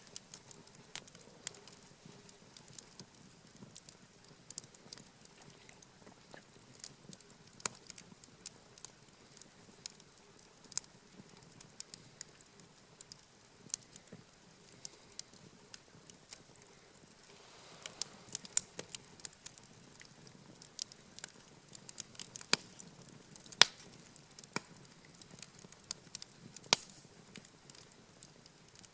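Wood campfire crackling, with irregular sharp pops and snaps that come more often in the second half.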